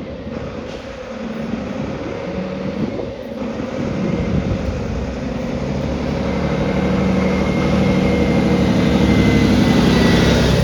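Motor vehicle engine rumbling in city traffic, growing steadily louder toward the end, with a faint high whine near the end.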